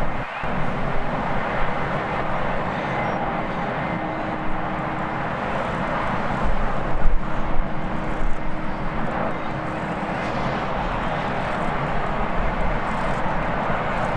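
Jet airliner engines running with a steady roar and a faint steady hum, mixed with gusty wind rumbling on the microphone.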